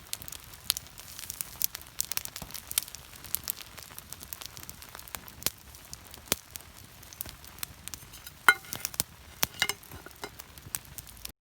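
Wood campfire crackling, with frequent sharp pops and snaps over a faint hiss and a couple of brief squeaky notes about three-quarters of the way through. It stops abruptly just before the end.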